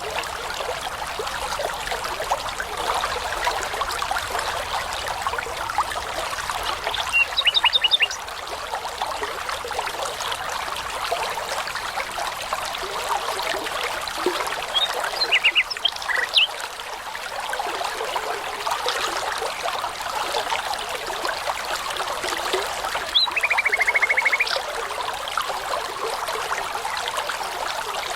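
Babbling brook running steadily, with songbird calls over it: a quick run of repeated notes about seven seconds in, a few short notes around fifteen seconds, and a fast trill about twenty-three seconds in.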